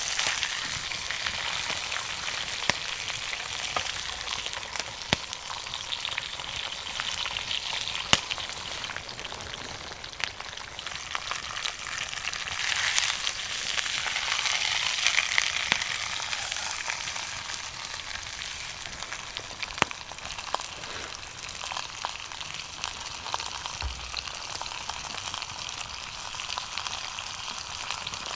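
Steak sizzling as it cooks over a wood fire: a steady frying hiss that swells twice, with occasional sharp pops.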